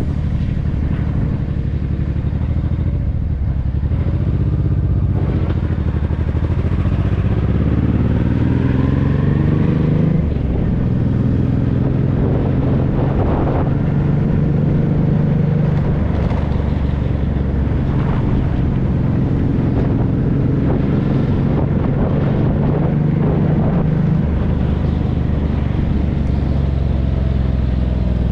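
Honda NT650V Deauville's V-twin engine running through a Dominator aftermarket exhaust on the move. The pitch rises as it accelerates a few seconds in, then holds fairly steady at cruise.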